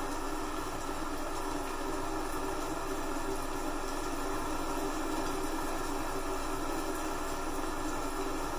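Steady rain, an even hiss with no breaks or separate drops standing out.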